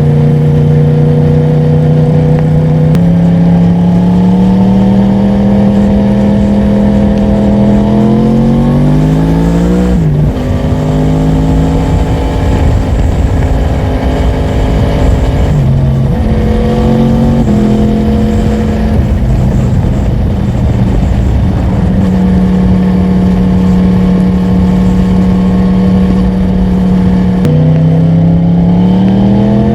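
Yamaha MT-10's crossplane inline-four engine under way, loud. The revs hold steady for a few seconds at a time and climb in several pulls. The pitch jumps sharply a few times at gear changes, and the engine climbs again near the end, with wind rush underneath.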